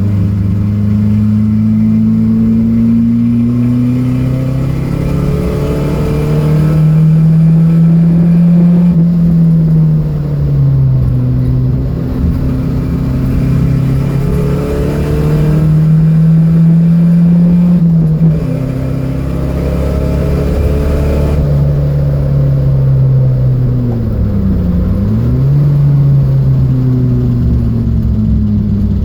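Datsun B210's engine being driven hard on a race track, its note climbing under acceleration, holding, then dropping off several times as the car speeds up and slows for corners. About two thirds of the way through the pitch dips sharply and comes straight back up.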